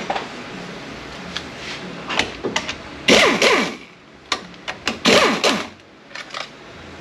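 Workshop tool and parts noise during a transmission teardown: scattered metallic clicks and knocks, with two loud mechanical bursts of about half a second each, about three and five seconds in.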